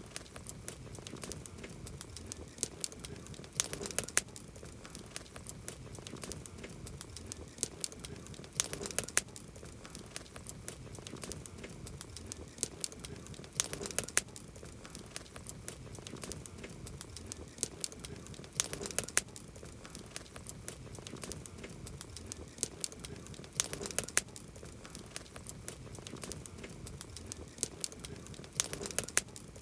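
Wood campfire crackling: a steady stream of sharp, irregular pops and snaps over a low hiss, with a cluster of louder pops every five seconds or so.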